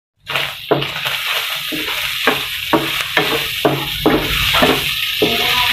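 Sliced hotdogs and ground pork sizzling in a granite-coated non-stick frying pan, with a spatula stirring and scraping about two or three strokes a second. It starts after a brief gap at the very beginning.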